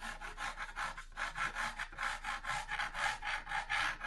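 Pen or pencil scratching on cardboard in a quick run of short strokes, about four a second, as lines are sketched onto the sheet.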